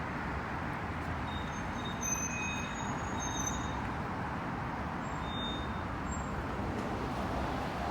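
Steady street traffic noise: a continuous rumble of road vehicles going by, with a few faint high-pitched tones a couple of seconds in.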